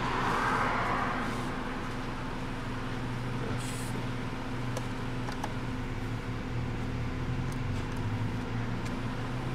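1994 Toyota Camry four-cylinder engine idling steadily at just under 1000 rpm, heard from the driver's seat. The idle does not rise with the air conditioning on: the repaired ECU still is not grounding the A/C idle-up valve.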